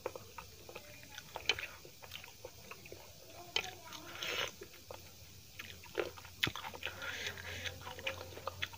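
Close-miked mouth sounds of eating dal and rice with the hand: wet chewing and lip smacks with scattered small clicks, and soft squishing of food being mixed on a steel plate. One louder noisy mouthful about four seconds in.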